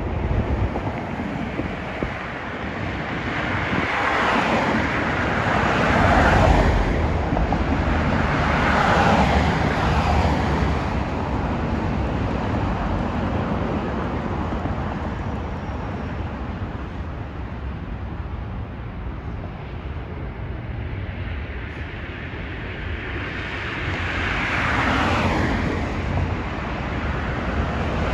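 Steady outdoor roar of passing vehicles, swelling and fading three times as vehicles go by.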